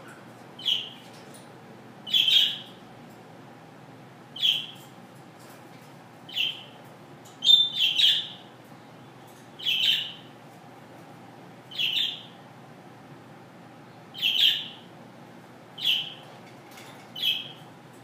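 Amazon parrot giving short, high-pitched calls about every two seconds, with a quick run of three calls about halfway through.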